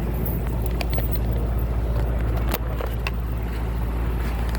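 City street traffic heard from a moving bicycle: a steady low rumble with scattered small clicks and ticks.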